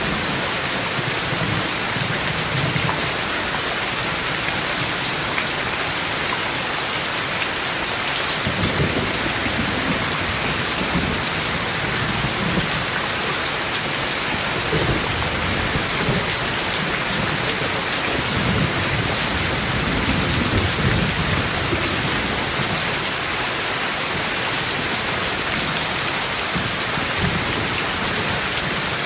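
Steady heavy rain hissing, with low thunder rumbling in several swells, the strongest about two-thirds of the way in.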